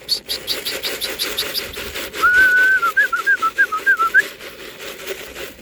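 A person whistling a warbling call to bring racing pigeons down to land at the loft. A quick run of high ticks comes before it, in the first second and a half.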